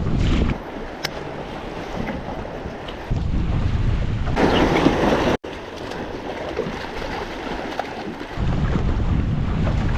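Strong gusting wind buffeting a chest-mounted microphone despite its wind muff. The low rumble comes and goes in gusts and is loudest just before the middle, where the sound cuts out for an instant.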